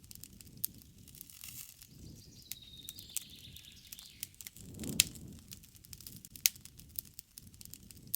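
Wood campfire crackling with irregular sharp pops, the loudest about five seconds in, over a low rustle of burning. A bird calls faintly with a thin, slightly falling note from about two and a half to four and a half seconds in.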